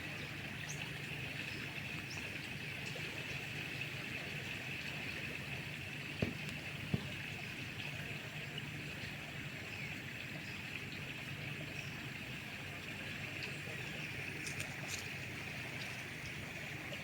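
Steady river ambience: a low rumble under a steady high hiss, with two sharp knocks about six and seven seconds in.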